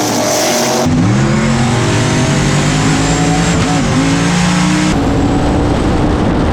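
Race car engines at full throttle, loud, in abruptly cut clips: about a second in one engine revs up and pulls hard with a brief dip in pitch partway through, and near the end a different engine sound cuts in.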